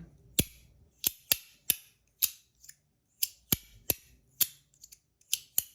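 Compoform Astronaut Coin haptic fidget coin being snapped over and over: about fourteen sharp, loud clicks at an uneven pace. This is the loudest action of the coin, at about 92 dB on a meter.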